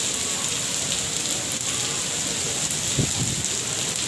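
Steady rain falling, the drops pattering on surfaces.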